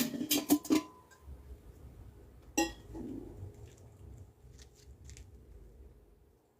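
Hard objects clinking, each clink ringing briefly: a few quick clinks in the first second and one more about two and a half seconds in. A faint low rumble and light ticks follow.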